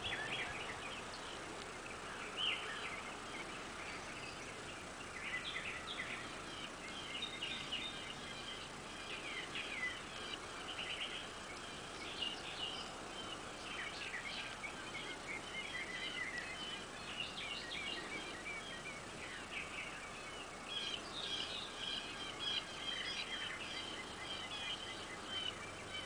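Birds chirping and calling in a continual stream of short, high notes, over a steady background hiss.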